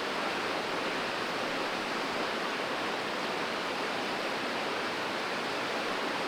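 Steady rushing of flowing water from a creek, even and unbroken.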